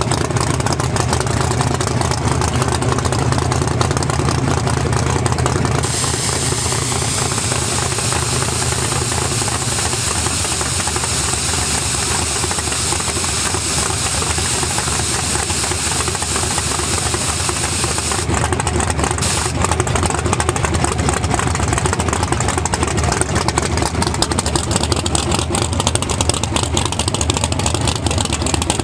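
A drag-race vehicle's engine running loudly at the track, with a steady hiss joining from about six seconds in until about eighteen seconds in.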